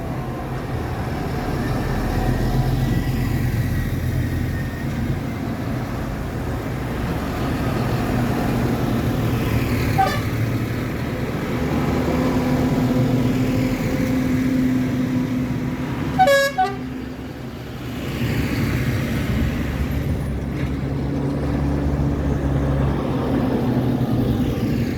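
Tractor and other vehicle engines running steadily as they pass. A short horn toot sounds about two-thirds of the way through, with a fainter one around ten seconds in.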